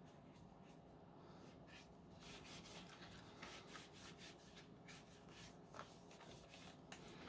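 Faint rubbing and scraping of a wet wipe worked over the plastic cyclone assembly of a Dyson V10 cordless vacuum, in short uneven strokes.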